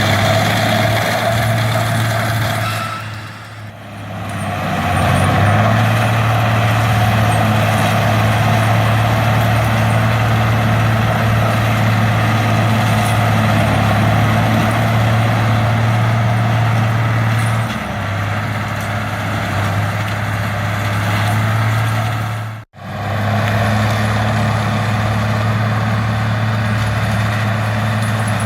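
Fendt tractor engine and Seppi Multiforst forestry mulcher running: a steady low drone with broad grinding noise over it. The sound dips briefly about three seconds in and drops out for an instant about two-thirds of the way through.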